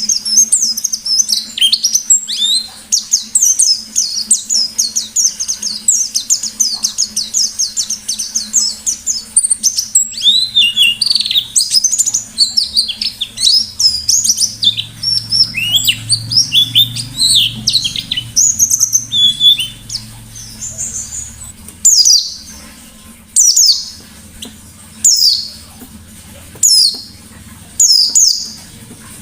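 Pleci (white-eye) singing a rapid, continuous twittering song of high chirps and trills. In the last third it changes to single sharp calls that fall in pitch, repeated about every second and a half.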